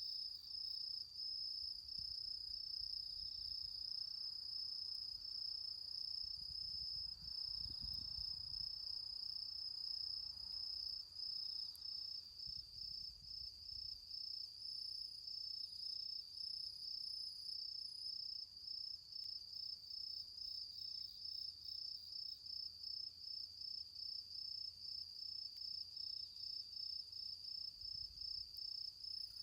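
Crickets chirping in a steady, high, evenly pulsing chorus of autumn insect song.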